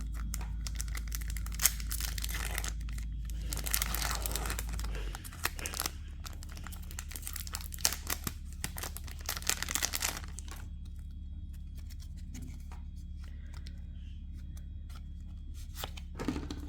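Foil wrapper of a Pokémon card booster pack crinkling and tearing as it is opened, for about the first ten seconds; after that, quieter handling with a few light clicks and rustles.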